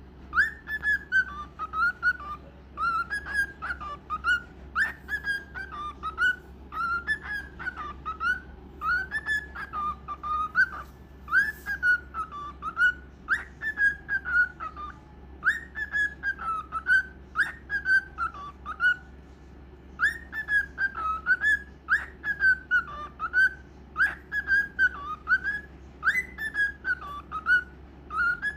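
Cockatiel singing: a long run of clear whistled phrases that waver up and down in pitch, repeated over and over, with a brief pause about two-thirds of the way through.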